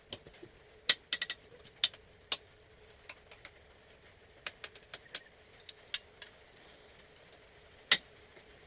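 Irregular sharp clicks and knocks of hand tools and metal kart parts being handled while a kart wheel is taken off, over a faint steady hum.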